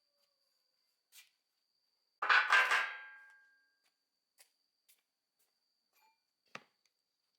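A metal part or tool clanks down, with a short clatter and a ringing tone that dies away over about a second. A few light clicks and taps come before and after it.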